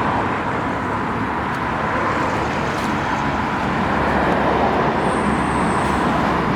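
Steady road traffic noise, a continuous rumble of passing vehicles that swells slightly toward the middle.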